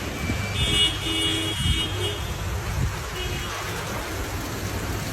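Vehicle horn sounding twice, first for over a second and then briefly, over steady street noise.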